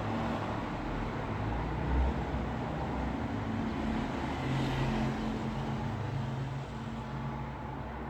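Road traffic noise: a steady rumble of vehicles with a low engine hum, and a brief swell of hiss about halfway through.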